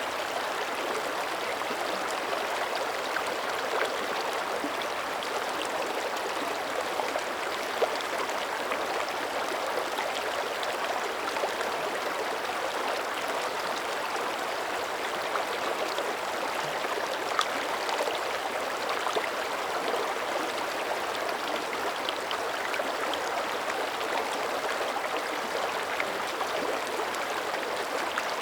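Mountain creek flowing steadily: an even rush of running water with small, scattered splashes and gurgles.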